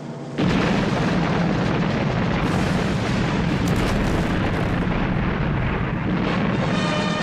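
A large explosion: a sudden blast about half a second in, followed by a long, heavy rumble of some six seconds, with orchestral music coming back near the end.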